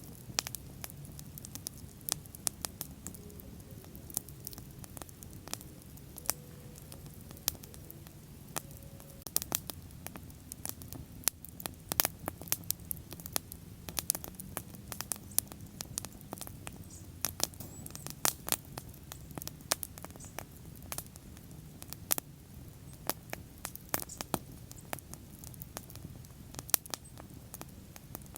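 Wood bonfire crackling: irregular sharp pops and snaps, some much louder than others, over a steady low rush of the burning fire.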